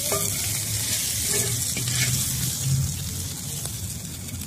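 Diced potatoes and carrots sizzling on a hot flat-top griddle, a steady hiss, with a few light scrapes and clicks of a metal spatula.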